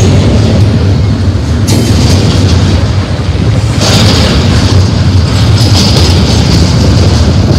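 Articulated double-stack intermodal well cars rolling past at close range: a loud, steady rumble of steel wheels on rail, with a couple of sharp clacks as trucks pass.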